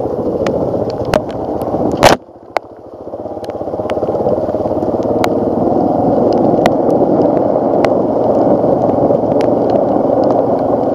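Suzuki DR-Z400S single-cylinder four-stroke engine running as the dirt bike rides a muddy trail, with scattered sharp clicks throughout. About two seconds in there is a loud knock, the sound drops away suddenly, then the engine builds back up over the next couple of seconds and runs steadily.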